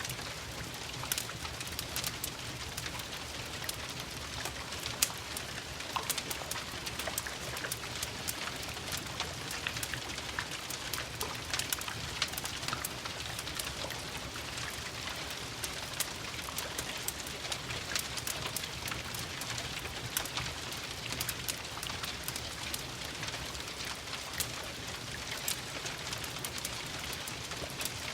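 Steady rain mixed with the frequent sharp crackles and pops of a wood fire burning in a fireplace.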